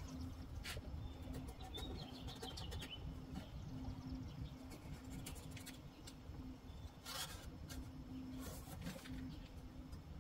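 Faint outdoor background with a bird calling, broken by a few brief light taps as a replacement sheet-metal cab corner panel is held and traced against the truck's cab.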